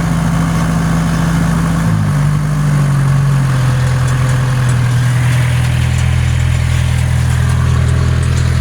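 John Deere dozer's diesel engine running steadily, its speed dropping to a lower, even note about two seconds in.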